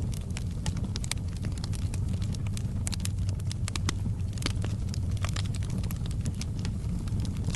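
Wood fire in a fireplace crackling, with frequent sharp, irregular pops and snaps over a steady low rumble of the burning fire.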